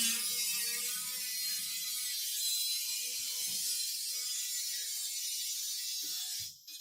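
Handheld power tool, such as a sander or grinder, running steadily with a rasping sound against the car's bodywork. Its pitch sinks briefly as it first bites, and it stops for a moment near the end before starting again.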